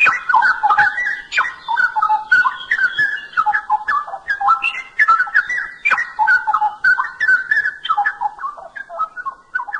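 Straw-headed bulbul (cucak rowo) singing a loud, continuous song of fast whistled notes that jump up and down in pitch.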